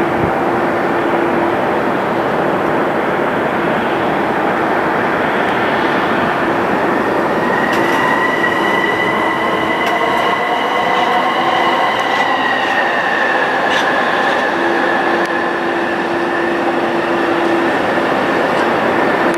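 Jet airliner engines running loud and close, a steady rush with a high engine whine that comes in about eight seconds in and drops slightly in pitch a few seconds later.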